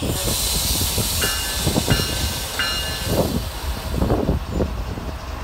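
Freight train of autorack cars rolling past: a steady low rumble of steel wheels on rails with irregular clanks, under a high hiss. About a second in come three short, high-pitched squeals.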